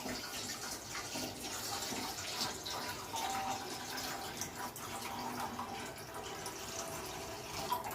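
Water being poured into a cooking pot on the stove for boiling rice, a steady splashing pour.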